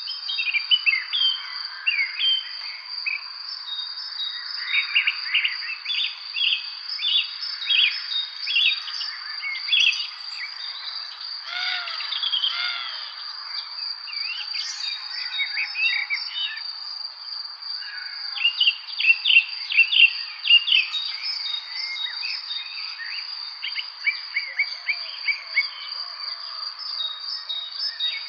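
Several songbirds chirping and singing in quick overlapping phrases, busiest in two stretches near the start and about two-thirds of the way through, over a continuous high, steady insect trill.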